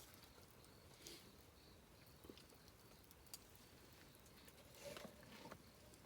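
Wood campfire crackling faintly: sparse small pops and snaps over a soft hiss, with a short cluster of crackles near the end.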